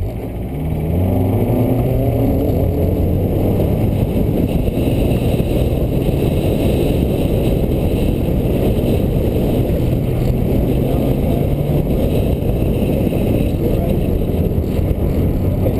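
1992 Mazda Miata's 1.6-litre four-cylinder engine under hard acceleration through an autocross course, revving up over the first second or so and then running at a fairly steady high pitch. A constant rush of wind and road noise runs under it.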